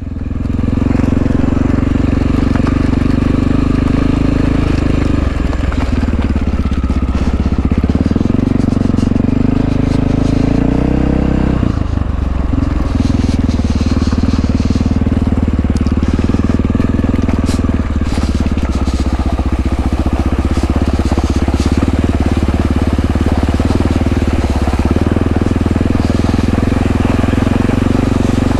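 1997 Honda XR650L's single-cylinder four-stroke engine running as the bike is ridden, with a steady note that sags and then climbs back up between about five and twelve seconds in.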